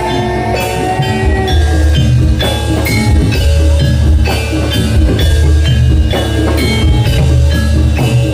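Loud amplified jathilan accompaniment in gamelan style: struck metal keys ringing in a steady beat with drums over a heavy bass.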